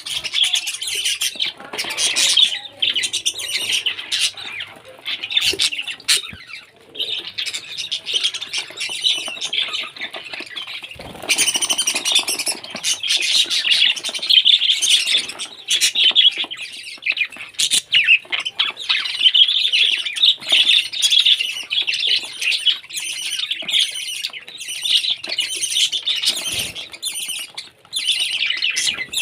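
Parrot chattering and squawking continuously in a dense run of short, high, sharp calls.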